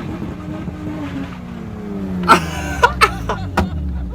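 Car engine running, its pitch falling as the revs drop, then one loud sharp bang and three more sharp bangs over the next second and a half.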